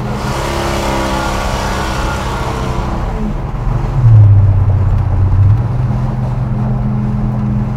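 Built Buick big-block V8 of a 1976 Buick Electra, heard from inside the cabin while driving, with wind and road noise over the first few seconds. About four seconds in, the low engine drone swells and is loudest for a second or so, then settles into a steady hum.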